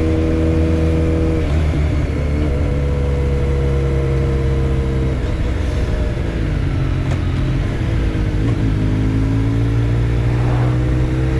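Motorcycle engine running under way. Its pitch drops about a second and a half in and again about five seconds in, then rises steadily over the last few seconds as it accelerates.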